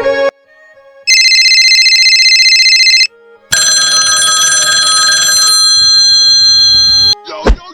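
An electronic phone ringtone rings twice at high pitch. The first ring warbles fast and lasts about two seconds; after a short pause a longer ring of about three and a half seconds follows. Quick sliding pitch sweeps start near the end.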